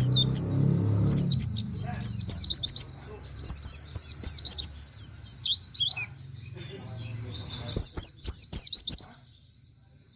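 White-eye (pleci) singing in rapid bursts of high, quick downslurred notes, several phrases separated by short pauses: the fast 'nembak' song.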